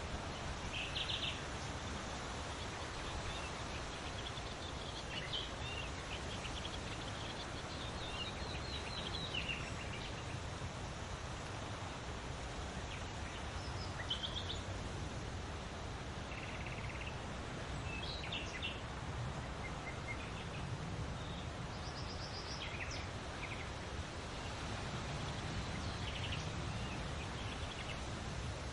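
Outdoor ambience with a steady background rush and several birds calling: short chirps and quick trills scattered throughout.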